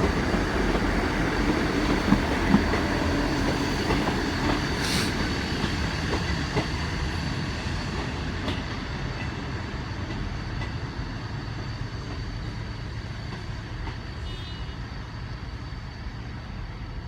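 A train running through the station and fading steadily as it moves away, with a few sharp clicks in the first few seconds.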